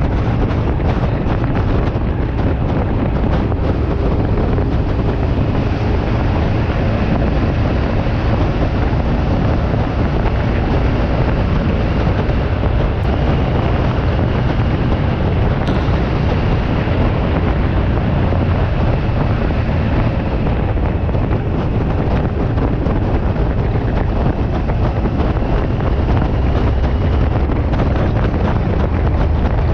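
Steady wind rushing over the microphone of a moving motorcycle, with a constant low rumble underneath.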